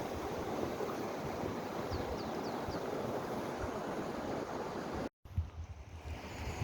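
Steady rush of a mountain valley stream. A few short high chirps, likely a bird, come about two seconds in, and the sound cuts out briefly about five seconds in, then returns quieter.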